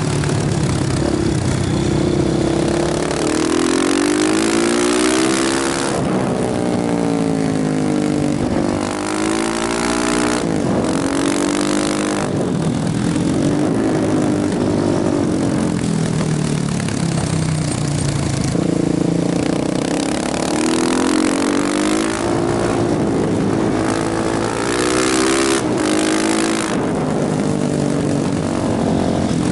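KTM motorcycle engine pulling through the gears under acceleration. The pitch climbs and drops again and again as it revs up and shifts, over a steady rush of wind noise.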